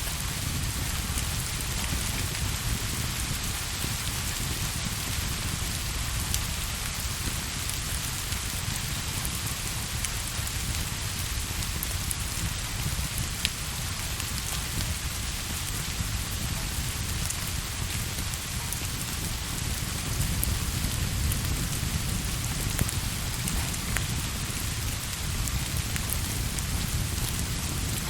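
Steady rain falling in a continuous even hiss, with a deep low rumble underneath and a few faint, sparse crackles from a fireplace.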